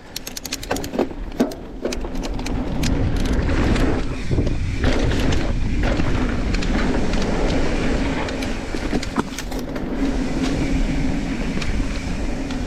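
Mountain bike rolling over a dirt trail: a run of sharp clicks and rattles in the first two seconds, then steady rolling noise of tyres and wind.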